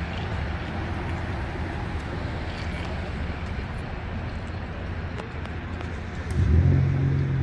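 A car engine running with a steady low rumble, which swells louder about six and a half seconds in as an engine comes closer or is revved lightly, over open-air background noise.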